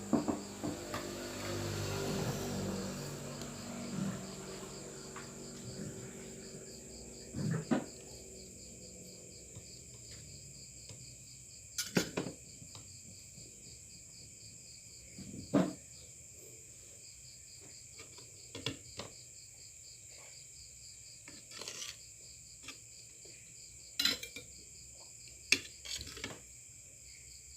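Cutlery clinking sharply against a plate about every three seconds while eating, over steady high cricket chirping. A low rustling noise fills the first few seconds.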